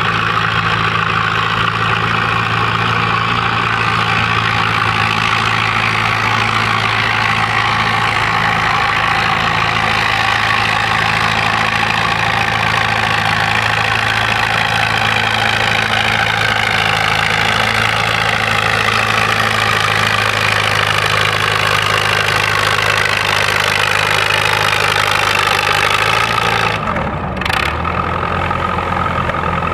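1948 Massey-Harris 55 tractor engine running at a steady speed, then slowing to a lower pitch near the end.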